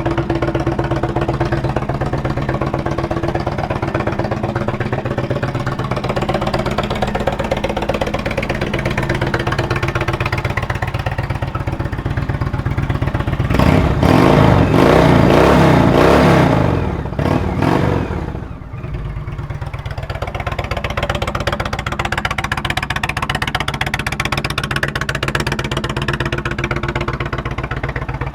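2017 Indian Roadmaster Classic's Thunder Stroke 111 V-twin idling, then revved for a few seconds about halfway through, its pitch rising and falling, before it settles back to idle.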